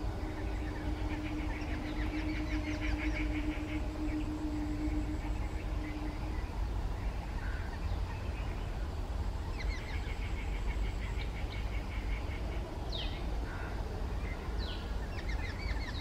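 Birds chirping in quick repeated note-trains, with a few short sweeping calls near the end, over a steady low rumble. A low steady hum runs through the first half.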